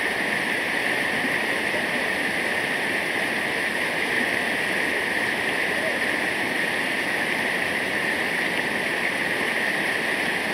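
Waterfall rushing steadily, an even wash of falling water, with a steady high-pitched drone held on top.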